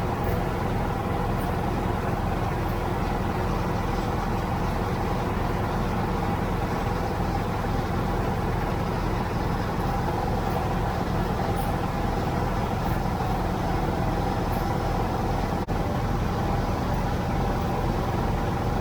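Tractor engine running steadily under way, an even drone with no change in speed.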